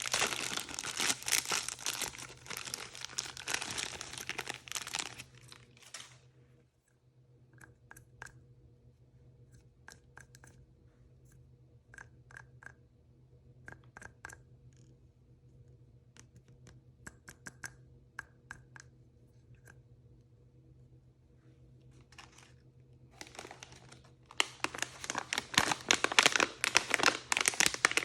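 Plastic blind-bag packaging crinkling and tearing as it is opened. A quieter stretch in the middle holds scattered light clicks and taps, and the crinkling picks up again near the end.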